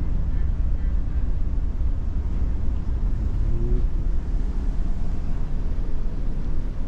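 Steady low rumble of a large car ferry's engines and machinery, heard from inside the ship.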